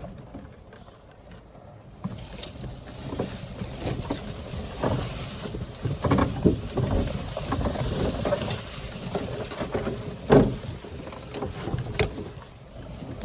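Outdoor noise of wind on the microphone over water, with irregular scattered knocks and splashes; the loudest knock comes about ten seconds in.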